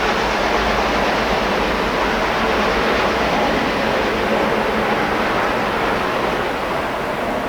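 Steam-hauled train running past on the line: a steady rushing noise that slowly fades as it draws away.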